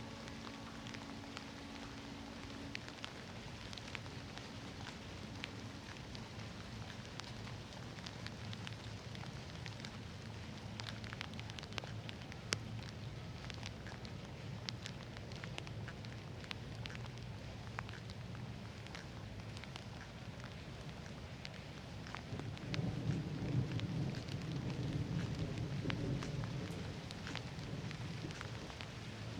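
Steady thunderstorm rain with many sharp individual drop ticks. A low rumble of thunder rolls in a little over 20 seconds in and fades after a few seconds. A faint steady low hum sits under the rain at the start.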